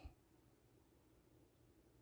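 Near silence with faint low background hum and one brief low thump at the very start.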